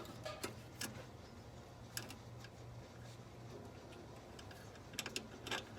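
Faint, irregular light clicks and taps of hand work on an engine's parts, with a small cluster near the end, over a steady low hum.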